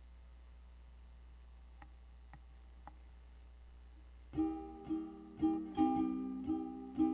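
Quiet room tone with a few faint clicks, then about four seconds in a plucked string instrument starts strumming chords, the instrumental introduction to a worship song.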